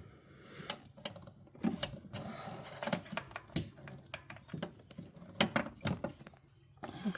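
Irregular clicks and clinks of metal hand tools, a socket and extension, working a spark plug out of a 5.7 Hemi V8's plug well.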